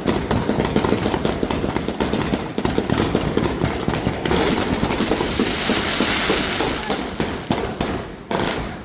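Fireworks going off in a dense, continuous rapid crackle of many small bangs. A loud hiss joins about four seconds in and dies away near the end.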